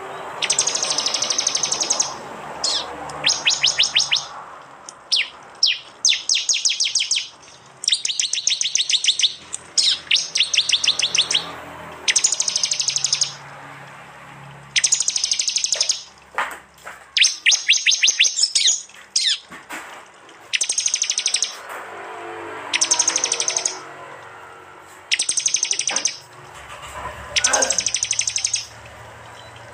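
Prenjak (prinia) birds giving loud, rapid chattering bursts, the 'tembakan' call. Each burst lasts about a second and they come one after another every second or two.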